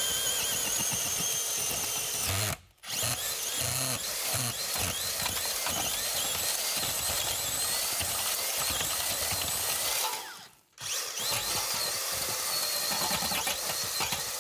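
Power earth auger boring a post hole in sandy soil, its motor running with a high wavering whine. It stops briefly twice and starts again.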